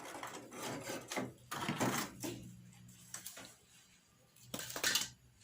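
Irregular rustling and knocks of frozen items and their packaging being handled and taken out of a refrigerator, with a short faint hum partway through.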